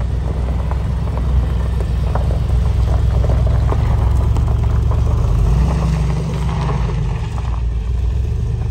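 Mercedes-AMG G63's twin-turbo V8 running at low speed as the SUV creeps across gravel, a steady low rumble that swells briefly a little past the middle.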